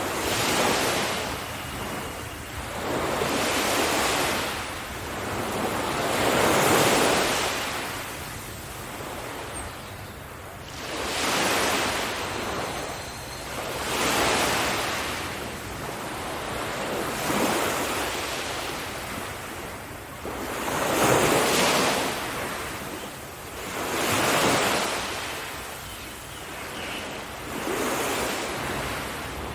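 Ocean waves breaking and washing up a sandy Caribbean beach, one surge swelling and fading every three to four seconds, over a steady hiss of surf.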